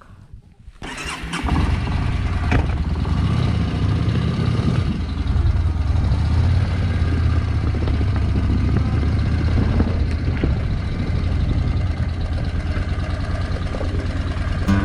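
Motorcycle engine starting about a second in, then idling steadily.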